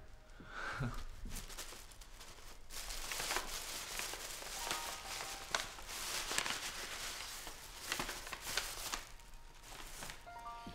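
Paper crinkling and rustling with sharp tearing sounds as a gift is unwrapped.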